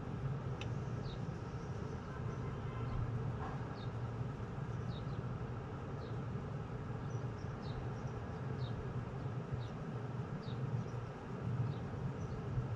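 A small bird giving short, high, downward chirps about once a second over a steady low hum of machinery or distant traffic.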